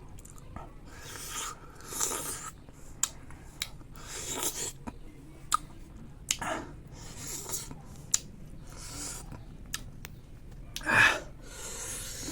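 Close-up sounds of someone chewing bayberries: sharp wet mouth clicks and several breathy, hissing sucks of air between bites, the loudest near the end.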